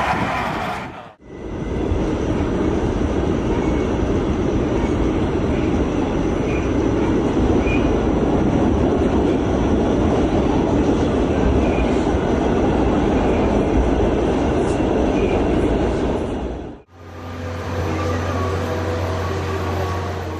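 A train running past with a steady rumble and rush of wheels on rails for most of the time. After a sudden cut near the end, a steady low hum with a few held tones.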